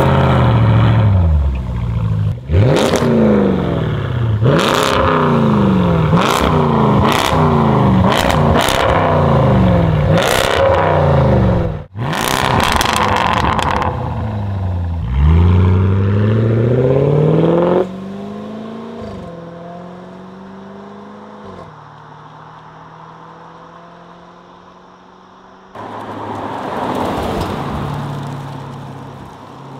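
Range Rover SVR's 5.0-litre supercharged V8 through a titanium exhaust with free-flow downpipes, blipped sharply about six times in quick succession, each rev rising and falling back. After a cut it revs once more and settles into a quieter, steadier run. A louder, noisy swell near the end sounds like the car passing by.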